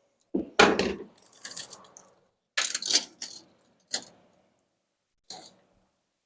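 Short clatters and knocks of hard objects being handled and set down, five or six of them with gaps between, the loudest about half a second in.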